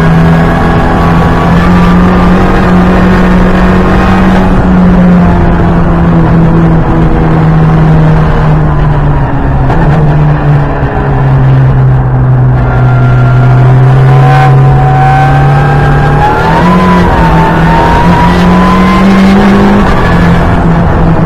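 Ford Fiesta EcoBoost track car's engine running hard under load, heard from inside the cabin, its note holding steady and then stepping down or up several times as the driver changes gear and lifts for corners. A thinner whine rises with it for a few seconds past the middle.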